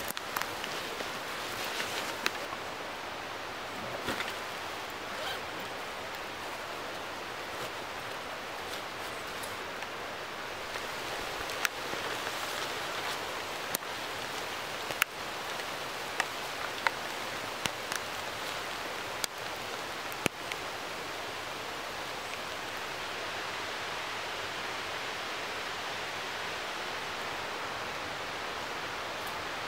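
Steady rain falling in a spruce forest, an even hiss, with a few sharp ticks scattered through the first part.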